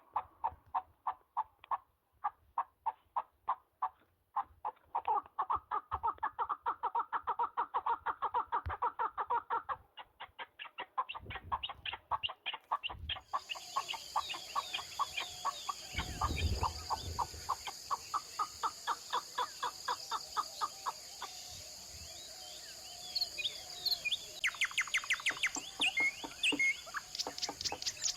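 Partridges calling in long runs of fast, repeated clucking notes, several a second. In the second half, smaller wild birds add high chirps, and a fast trill starts near the end.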